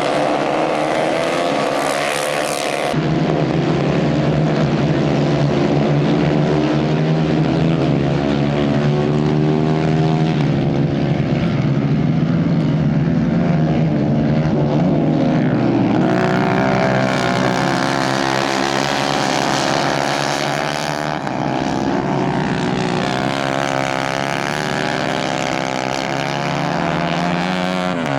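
Several 150 cc racing kart engines running hard together, their pitch rising and falling as the karts accelerate and back off.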